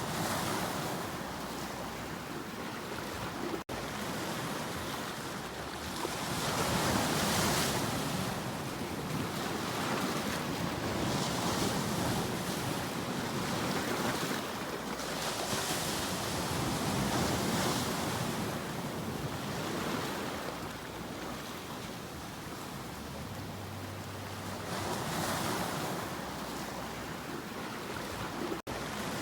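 Sea waves breaking and washing on the shore, the surf swelling and ebbing every few seconds. The sound cuts out for an instant twice.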